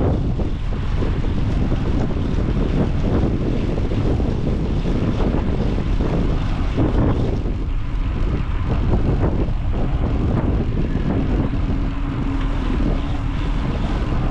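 Wind buffeting the microphone during a ride, a loud, uneven low rumble that never lets up. A faint steady hum comes in over it for the last few seconds.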